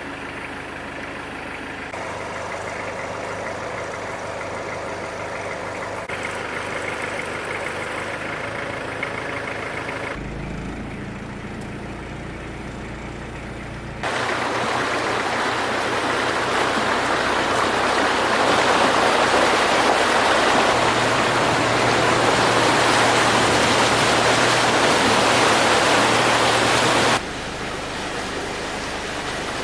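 A motor engine running with a steady hum for the first half, then a loud, even rush of flowing floodwater from about halfway that drops off suddenly near the end.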